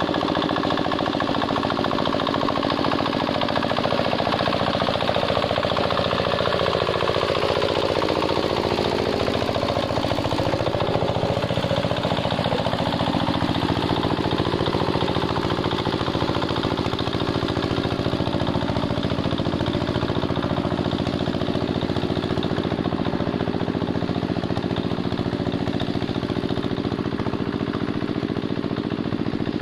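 Hand tractor's single-cylinder diesel engine running steadily with a rapid knocking beat while working a wet paddy field. Its engine note dips and picks up again as the load changes a few seconds in.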